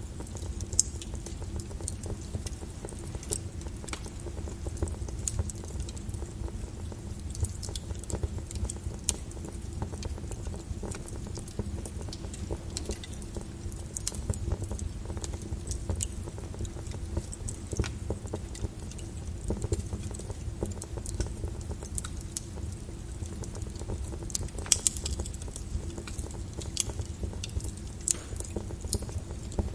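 Wood fire crackling in a fireplace, with frequent sharp pops, a louder one near the end, over a steady bed of rain and a low rumble.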